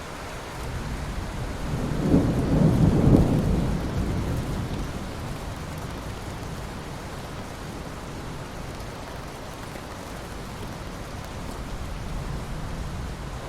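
Steady rain with one roll of thunder that swells about a second in, rumbles loudest around two to three seconds in, and dies away over the next couple of seconds.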